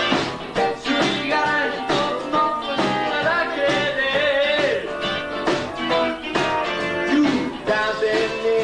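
Live band playing a blues-rock song: electric guitars, bass and drums, with a pitched lead line bending up and down over a steady beat.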